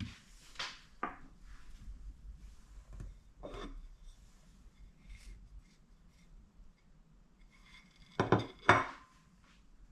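Scattered clinks and knocks of dishes and cutlery being handled, with two louder knocks close together near the end.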